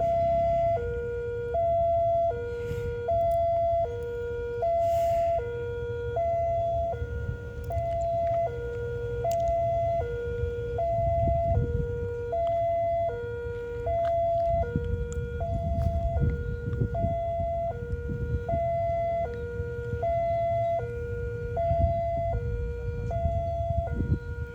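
Railway warning alarm sounding a steady alternating high-low two-tone, switching about every three-quarters of a second, warning of a train about to pass straight through the station. A low rumble runs underneath and grows stronger in the second half.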